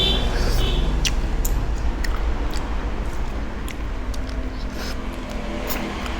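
Scattered small sharp clicks and taps, about one or two a second, over a steady low rumble.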